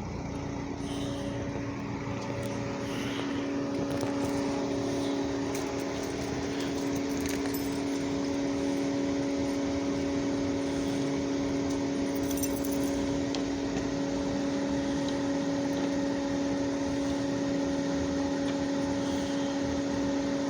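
Steady mechanical hum of a running machine: an unchanging low drone with a fainter tone above it, with no change in pitch or level.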